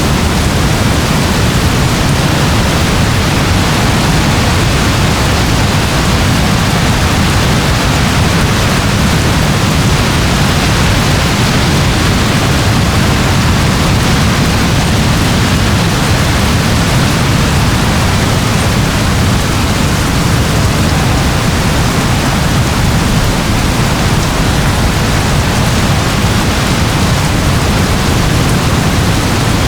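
Steady rain falling, an even hiss with a low rumble underneath and no separate drops or thunderclaps standing out.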